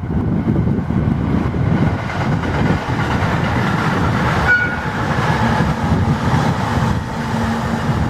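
Electric train running past on the line, its wheels rumbling steadily, with gusty wind on the microphone.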